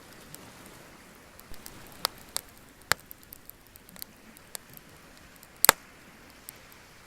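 Wood bonfire crackling: scattered sharp pops and snaps over a steady faint hiss, the loudest pop a little over halfway through.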